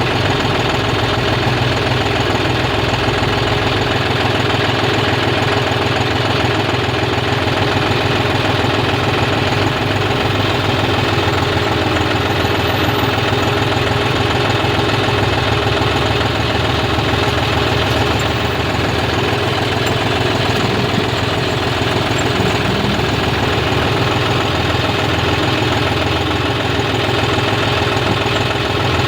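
A heavy machine's diesel engine running steadily at close range, with a fast, even knock to its beat.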